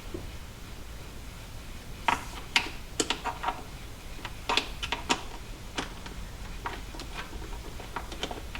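Irregular sharp clicks and knocks of hard parts being handled as a fuel injector is worked into its fuel rail, its O-ring not seating. The clicks come thickest a couple of seconds in and grow fainter near the end.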